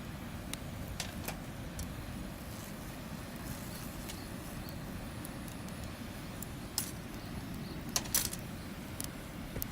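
Campfire of burning wood crackling, with scattered sharp pops and a few louder snaps near the end over a steady low rumble.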